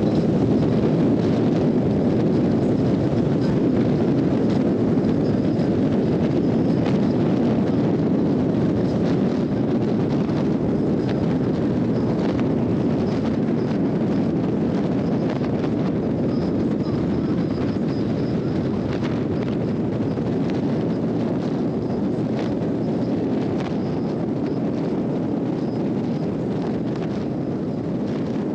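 Steady wind rush over the microphone from a 2021 Harley-Davidson Road Glide Special riding at cruising speed, with its V-twin engine running underneath; the level eases slightly toward the end.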